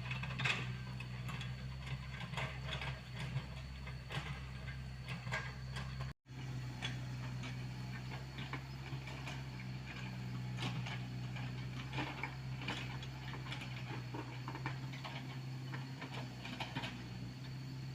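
Komatsu PC75UU mini excavator's diesel engine running steadily at work, with frequent light clicks and knocks from the machine and its digging. The sound drops out for an instant about six seconds in.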